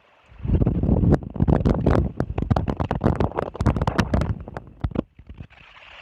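Wind gusting across an outdoor nest-camera microphone: a loud low buffeting rumble with crackling that eases about five seconds in, leaving a softer hiss.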